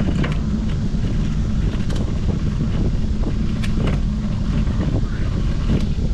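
Steady low rumble of wind buffeting the camera microphone during a bicycle ride, with scattered light clicks and rattles.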